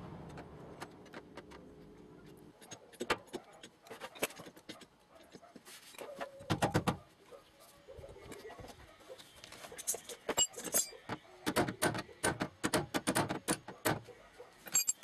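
Irregular light metallic taps and clinks, some ringing briefly, in clusters: a loud group about halfway through and a dense run of taps near the end. These are typical of metal tools working on sheet-metal body panels.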